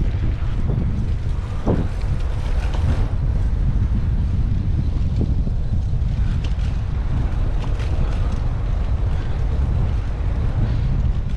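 Wind buffeting the microphone of a bike-mounted action camera while riding: a steady low rumble, with a few short clicks here and there.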